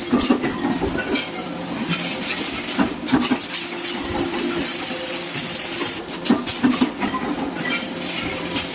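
Metal clattering and clinking at irregular moments over a steady machine hiss and hum, like sheet metal being handled and worked by machinery.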